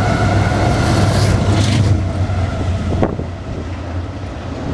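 Intermodal freight train rolling past: a steady low rumble with a held ringing tone that fades out about two seconds in, and wind buffeting the microphone.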